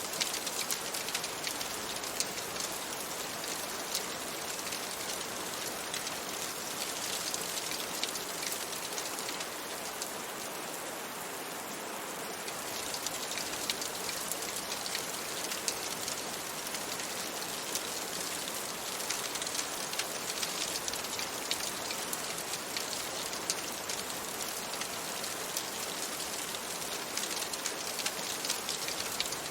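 Steady rain falling, a dense even hiss sprinkled with many small sharp ticks; it eases slightly for a couple of seconds about ten seconds in.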